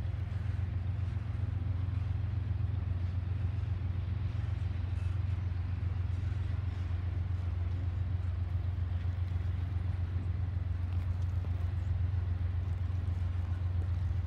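Double-stack intermodal freight train rolling past: a steady low rumble of wheels on rails with faint clicks, unchanging throughout.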